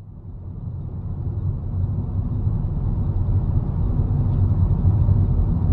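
Steady low vehicle rumble of a moving car's engine and road noise, rising in level over the first couple of seconds and then holding steady.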